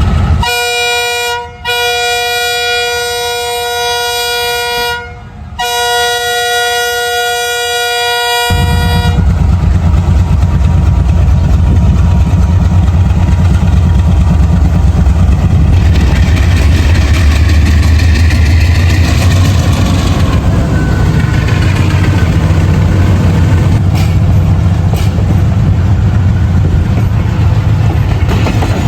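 Train horn sounding three times: a short toot, then two long blasts. It gives way about eight seconds in to the loud, low, steady rumble of a train running past.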